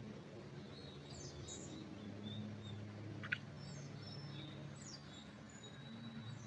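Songbirds chirping faintly: scattered short high calls and a few thin held whistles, over a steady low hum. A single sharp click comes a little after three seconds in.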